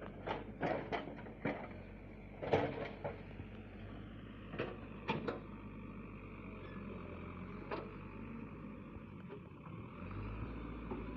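A heavy machine's engine running steadily, with a series of sharp metallic knocks and clanks over it in the first five seconds or so and one more a little later.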